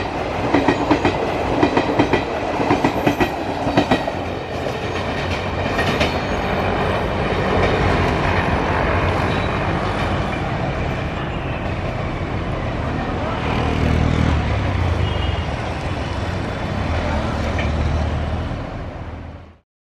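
Passenger coaches of the Maharajas Express train rolling past, their wheels clattering over rail joints in a quick rhythm for the first few seconds. The clatter then gives way to a steady rumble, which cuts off suddenly near the end.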